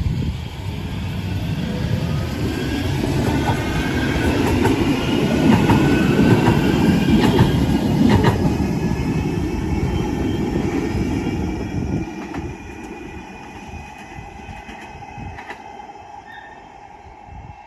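A Manchester Metrolink tram passing on its rails: a rumble that builds to a peak midway and fades away, with high whining tones and a few sharp wheel clicks as it goes by.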